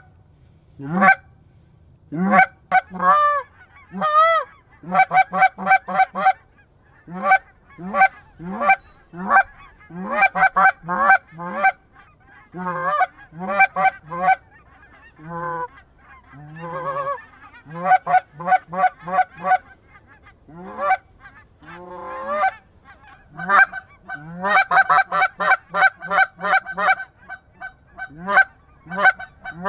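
Geese honking: many short honks in fast runs with brief pauses, several birds calling over one another.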